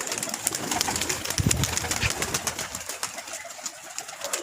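Domestic pigeons in a loft, with a low coo about a second and a half in over a run of many small clicks and scuffles.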